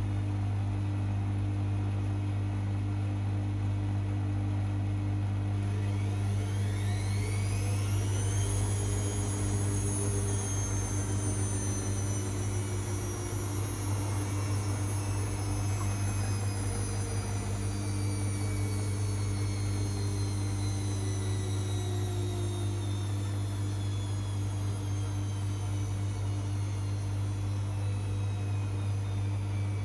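Privileg 5020 front-loading washing machine with a steady low hum throughout. About six seconds in, the drum motor's whine rises quickly to a peak, then falls slowly as the drum coasts down, typical of a short spin during draining. The motor sounds its age from years of laundry use.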